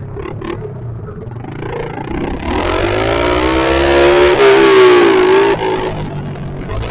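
Pit bike engine accelerating hard. The revs climb from about two seconds in and hold high and loud for a few seconds, then drop back shortly before the end.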